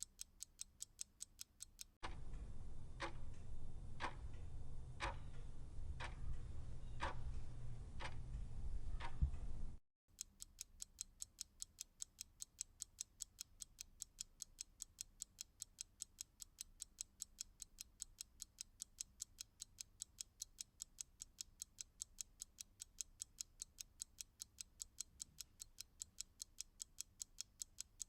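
Clock ticking: a quick, light tick about four or five times a second. About two seconds in it switches to a louder clock with a low hum underneath and slower ticks about once a second. Near ten seconds that stops abruptly and the quick ticking returns.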